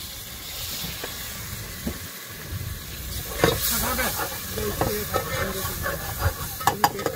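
Onions and tomatoes sizzling and hissing in a hot aluminium pot as water is poured in. A metal spoon stirs and scrapes against the pot, in quick regular strokes near the end.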